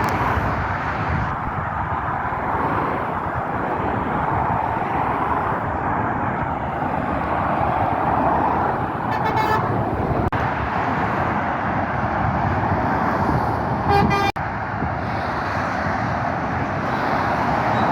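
Steady roar of fast road traffic passing, with a vehicle horn sounding two short toots, about nine and fourteen seconds in; the second is the louder.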